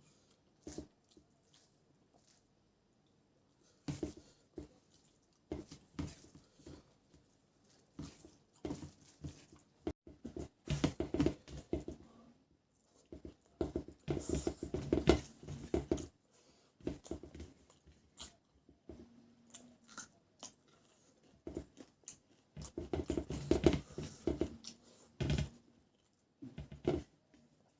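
A person eating close to the microphone: chewing and biting with irregular wet clicks and crunches, coming in bouts of a few seconds with quieter pauses between them.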